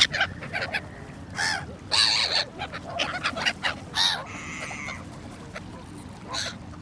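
Gulls calling: a string of short, harsh cries from several birds, the loudest about one and a half, two and four seconds in.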